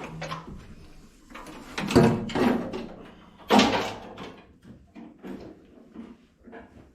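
Backhoe dash panel being lifted off and set aside: two loud clunks with a short metallic ring, about two and three and a half seconds in, then lighter taps and rattles.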